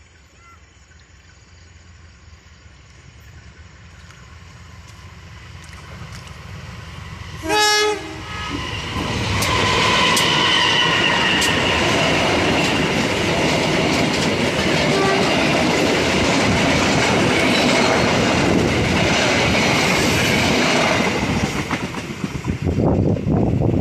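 A train approaches, growing steadily louder, and sounds one short horn blast about eight seconds in. It then passes close by for about twelve seconds with a loud rumble and wheel clatter before it starts to fade near the end.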